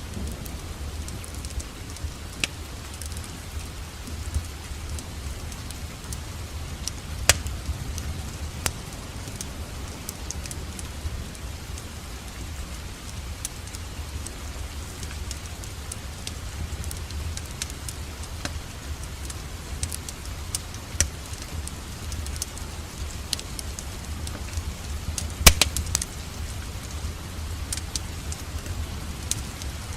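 Wood fire in a fireplace crackling with scattered sharp pops over a steady hiss of rain and a low rumble. The loudest pops come about a quarter of the way in and again near the end.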